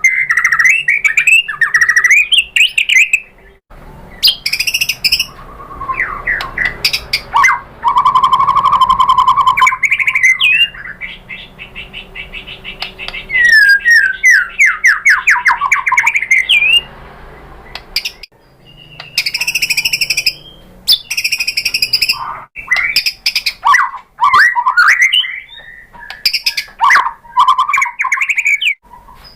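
White-rumped shama (murai batu) singing a long, varied song of loud whistled phrases, with a held whistle and a fast run of rapid sweeping notes, broken by short pauses.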